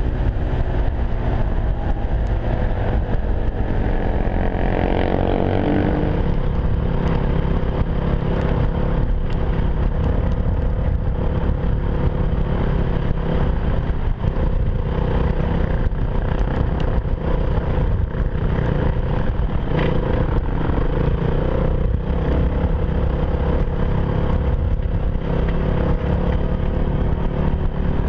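Enduro motorcycle engine running while riding, revving up a few seconds in and then pulling steadily, over a constant low rumble.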